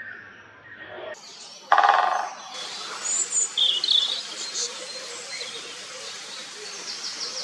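Small birds chirping and singing, with short high notes from about two and a half seconds in. Just before that comes a loud, rapid rattling burst of under a second.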